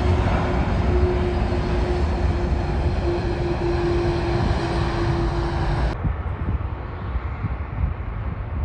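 Jet airliner engine noise, loud and steady with a sustained hum tone running through it. About six seconds in it cuts abruptly to a quieter, duller engine sound.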